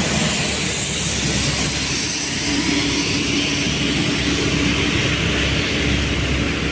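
Heavy vehicle's engine running under load up a steep climb, a steady low hum with a higher drone joining a couple of seconds in.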